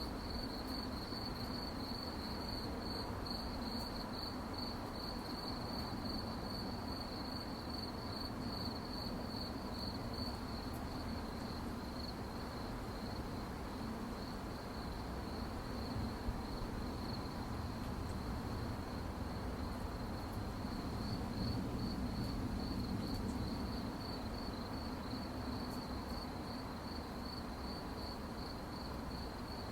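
Crickets chirping at night, a steady, rapidly pulsing high trill over a soft background hiss.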